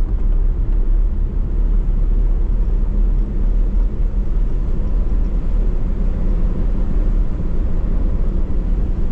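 A vehicle driving on a snowy road: a steady, low engine drone and rumble.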